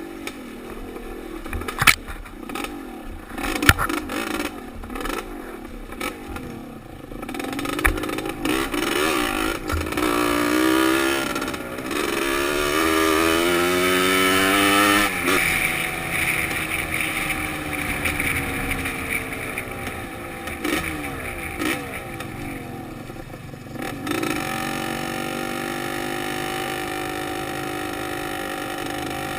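Dirt bike engine revving up and down, heard from a helmet-mounted camera, with a few sharp knocks and rattles in the first few seconds. The revs climb in the middle and settle to a steadier drone in the last few seconds.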